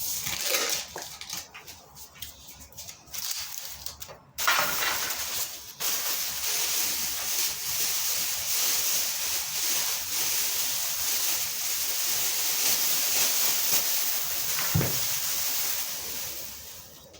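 Plastic masking sheet and masking tape crackling and tearing in handling for the first few seconds, followed after a short pause by a steady hiss for most of the rest.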